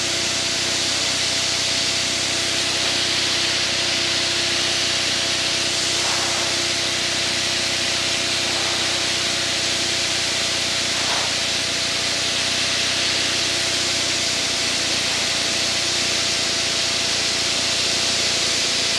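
Steady aircraft engine and airflow noise inside the cockpit during formation flight: an even hiss with a low hum and faint steady tones underneath.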